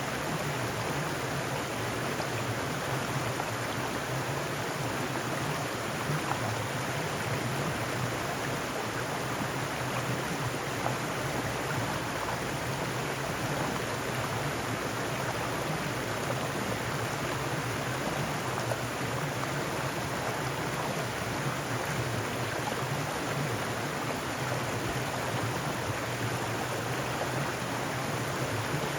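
Mountain stream running steadily over rocks, an even rushing and splashing of water.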